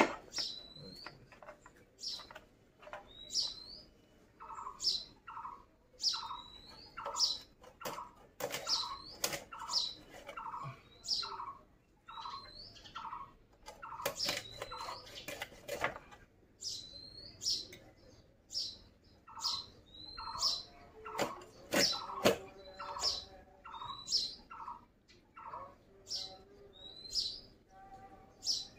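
Birds chirping, a short high call repeated about once a second, joined in two stretches by runs of a lower chirp. Over them come scattered sharp scrapes and knocks of a knife cutting through pieces of fish.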